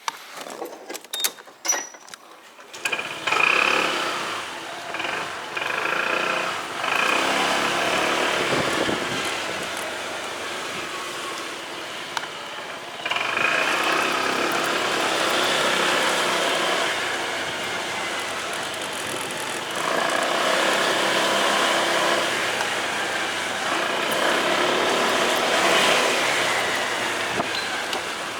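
A few sharp clicks, then about three seconds in a motorcycle engine starts running and keeps going, its level rising and falling as the rider moves off and rides.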